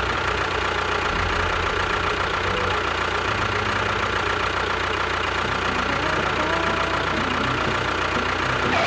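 A machine running steadily: an engine-like rumble with a constant high whine over it.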